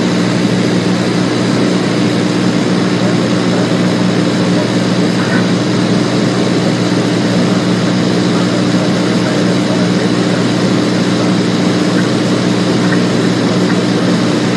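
Cessna 210's piston engine and propeller droning steadily in flight, holding one constant pitch with no change in power.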